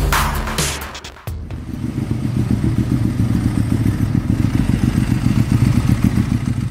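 A motor engine running with a rapid low pulsing, mixed with music, which cuts off abruptly at the end.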